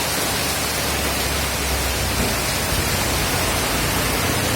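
Steady, dense hiss of a heavy tropical downpour, with a low rumble underneath from about a second in.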